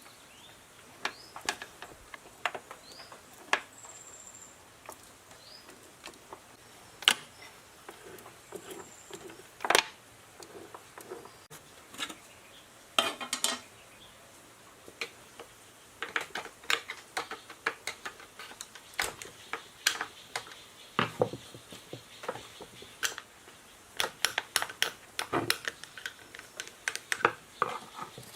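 Small metal parts and hand tools clinking and tapping as they are handled during lathe repair work: scattered sharp knocks, sometimes in quick runs of several.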